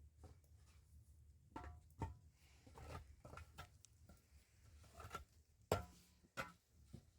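Scattered light clicks and knocks at an uneven pace over a low steady hum, with two sharper knocks near the end.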